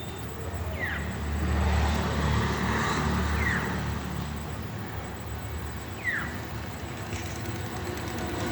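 Low rumble of passing road traffic that swells and fades, with three short downward-sliding bird calls a couple of seconds apart.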